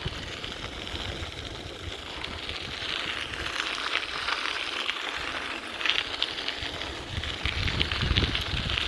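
Bicycle tyres rolling over a smooth gravel path, a steady crackling crunch, with a low wind rumble on the microphone.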